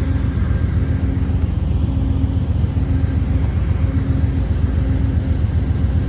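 Diesel locomotives idling, Amtrak P42s among them: a steady, deep engine rumble with a faint higher hum that comes and goes.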